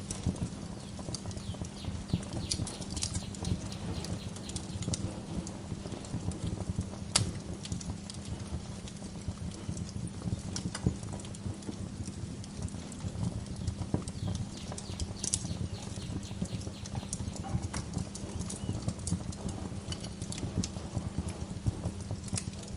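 Wood fire crackling in a fireplace: a dense stream of small crackles and snaps over a low steady rumble, with a few sharper pops, one about seven seconds in and another about fifteen seconds in.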